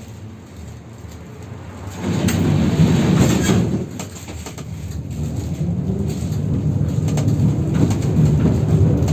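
71-608KM tram running on the rails, heard from on board. The running noise is low at first, swells about two seconds in, dips briefly near four seconds, then builds steadily again.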